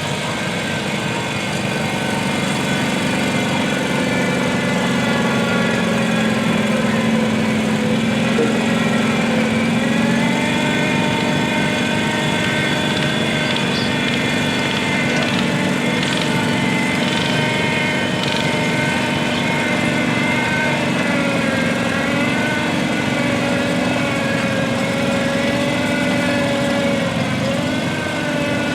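Small garden tractor engine running hard and steadily, its pitch stepping up about ten seconds in and wavering afterwards as the engine speed shifts.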